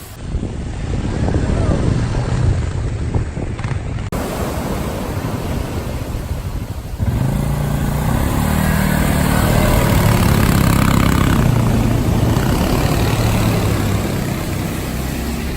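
Beach buggy engine running while being driven. The sound changes abruptly about four seconds in and again about seven seconds in, after which a steady engine note is stronger.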